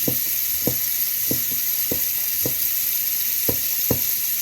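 Kitchen knife slicing blanched swordtip squid on a cutting board: about seven short knocks of the blade on the board, roughly two a second with one short pause, over a steady hiss.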